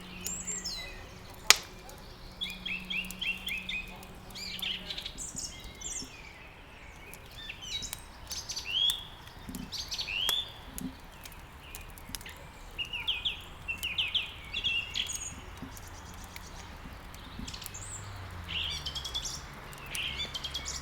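Songbirds chirping and twittering in short, repeated calls, over the crackle of a wood fire burning in a fireplace, with one sharp pop about one and a half seconds in.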